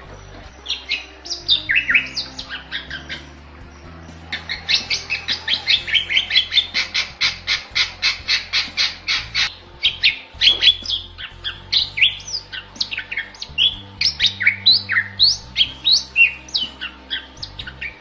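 Bali myna singing: a fast run of sharp repeated notes, about five a second, in the middle, between phrases of varied rising and falling whistled notes, with a brief pause a few seconds in.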